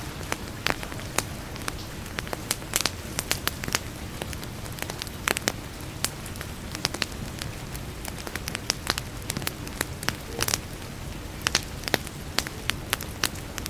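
Wood fire in a fireplace crackling, with irregular sharp pops and snaps over a steady low rush.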